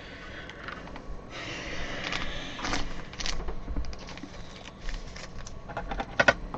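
Trading cards and their packaging being handled: rustling, with scattered light clicks and taps, and a sharper pair of clicks near the end.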